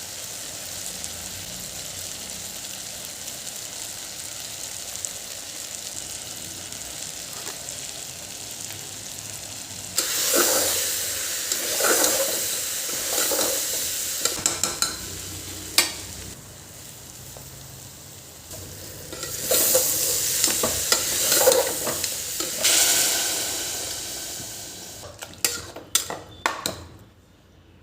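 Food frying in a pan with a steady sizzle that suddenly flares much louder about ten seconds in, with a utensil stirring and scraping the pan. It settles, then flares loud again about two thirds of the way through. A few sharp clinks come near the end.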